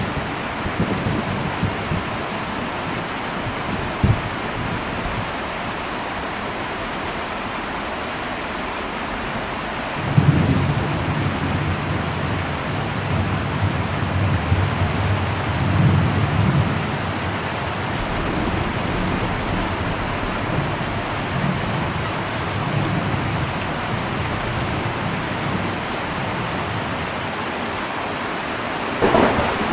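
Heavy rain falling steadily on an old metal roof. A long low rumble of thunder starts about ten seconds in and rolls on for several seconds, and a sharper thunderclap comes near the end.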